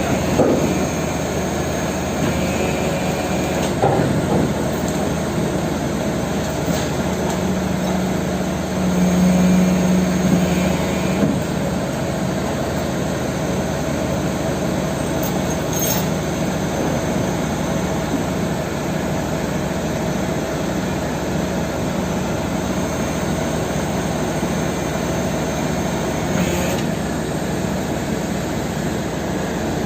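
Heavy truck diesel engine running steadily, growing a little louder for a couple of seconds about nine seconds in.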